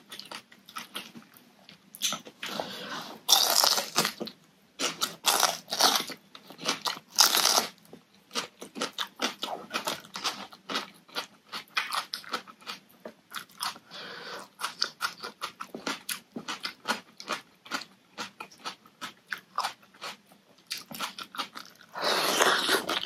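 Close-up eating sounds: crisp bites and crunchy chewing of raw vegetables, many quick crunches with louder bites about 3 and 7 seconds in.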